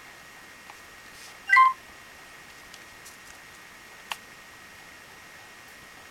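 JVC Everio GZ-E265 camcorder giving a short two-step electronic beep about a second and a half in. A single sharp click follows near the four-second mark, over a steady low hiss.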